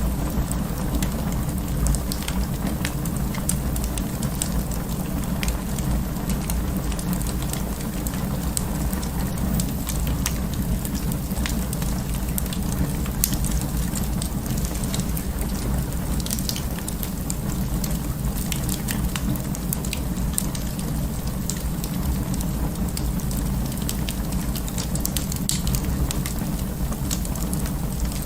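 Wood fire burning in an open fireplace: a steady low rumble of flames with many small crackles and pops scattered throughout.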